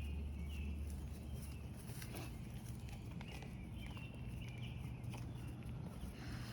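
Birds chirping again and again in short notes over a steady low rumble.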